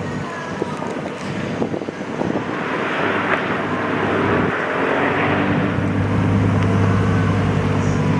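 Car engines running, with one engine's steady low drone growing stronger about five seconds in.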